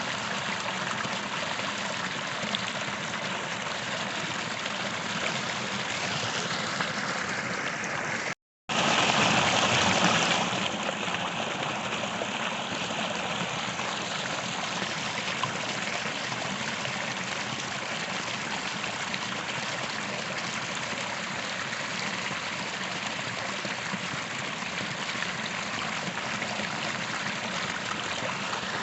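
Creek water flowing and trickling steadily. About eight seconds in, the sound drops out for a moment, then comes back louder for a couple of seconds before settling.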